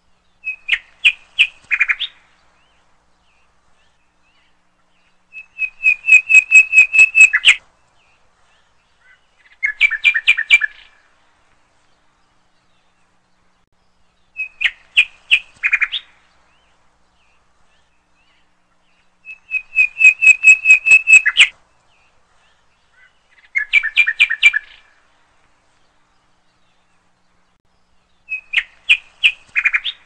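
A small songbird calling in short bursts of quick, repeated chirps, seven bursts a few seconds apart with silence between. The same three phrases come round again about every fourteen seconds, as in a looped recording.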